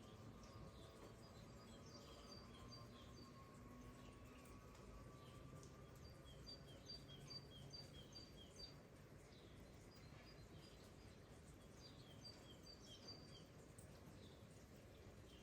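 Faint, steady outdoor background hiss with a small bird calling in several quick runs of short, evenly spaced high chirps, about five to eight notes per run.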